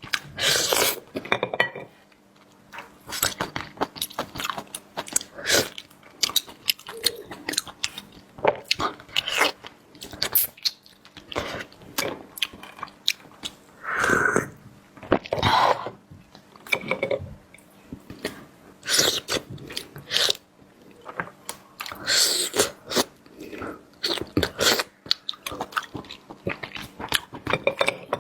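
Close-miked eating sounds: a person chewing and biting food, with irregular wet clicks, smacks and crunches.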